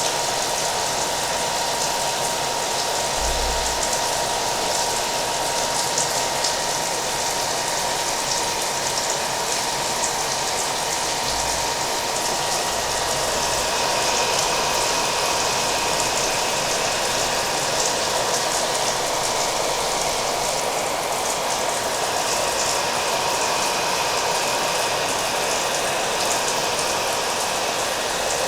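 Hair dryer running steadily, its even rush of air carrying a constant hum, mixed with the patter of falling rain.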